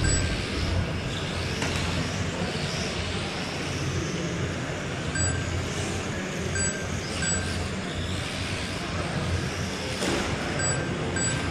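Electric Tamiya RC trucks racing on a carpet track, their motors whining up and down in pitch. Short electronic beeps from the lap-timing system sound several times from about halfway through, as cars cross the line.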